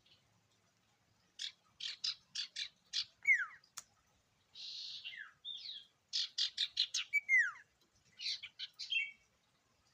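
Sirtu songbird singing in varied phrases: runs of quick sharp chips, two clear whistles that slide downward, and a harsh buzzy rasp, with short pauses between phrases.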